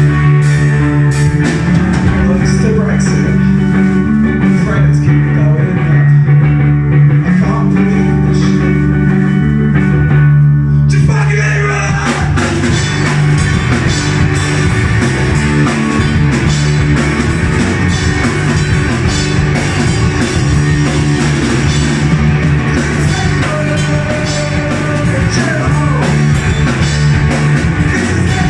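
Live rock band playing a song, with electric guitar and drum kit. About eleven seconds in the sound fills out and gets brighter as more of the band comes in.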